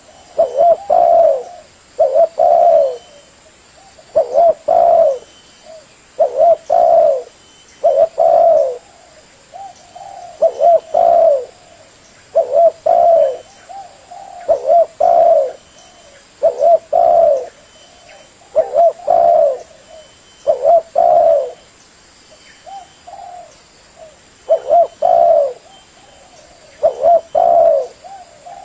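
Spotted dove (tekukur) cooing over and over, a short low phrase of a few coo notes repeated about every one to two seconds.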